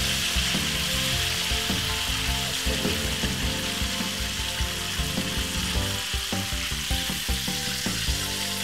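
Battered chicken pieces deep-frying in a pan of hot oil, a steady hissing sizzle of bubbling fat.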